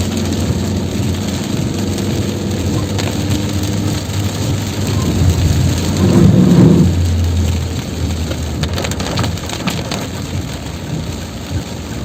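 Heavy tropical rain pouring down, a steady hiss with a low hum underneath and scattered sharp drop ticks. A louder low rumble swells about six seconds in and fades over a second or so.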